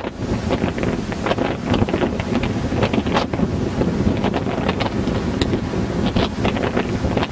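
Strong storm wind gusting hard against the microphone, buffeting it constantly, over the rush of sea waves.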